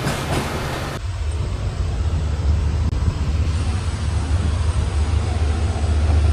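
Sarbat Da Bhala Express passenger train running at speed: a steady rumble. About a second in it changes abruptly to a heavier, deeper rumble.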